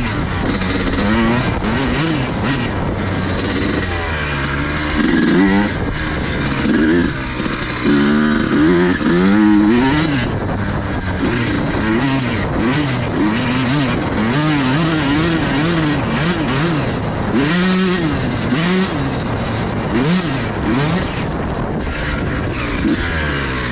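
Pit bike's small single-cylinder engine being ridden hard, revving up and falling back again and again. Many sharp knocks and clatters run through it.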